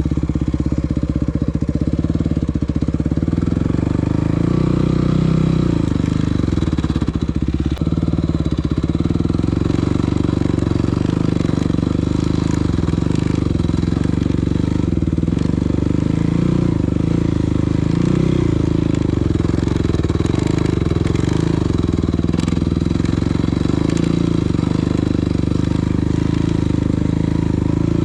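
Yamaha WR250F's single-cylinder four-stroke engine running steadily while riding, its revs rising and falling a little.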